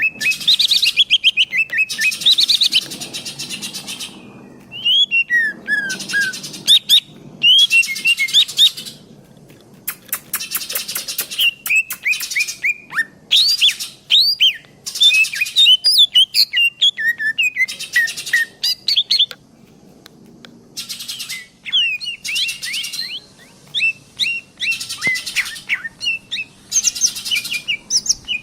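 Green leafbird (cucak hijau) singing vigorously: long, varied bursts of rapid chirps, trills and sweeping whistled notes with short pauses between phrases, the kind of song played as a lure to set other songbirds singing.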